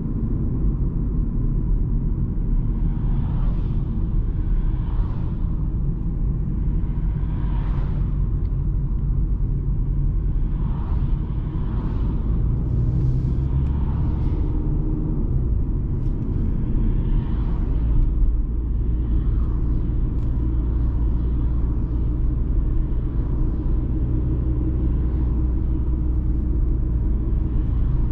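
BMW 220d xDrive Gran Coupe driving at speed: a steady low rumble of engine and road noise. Over it, short whooshes swell and fade every second or two.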